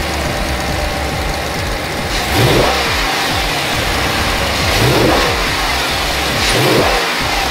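A 2012 Chrysler 300 SRT8's 6.4-litre Hemi V8 idling and being revved three times, about two, five and seven seconds in, each rev rising briefly and falling back to idle.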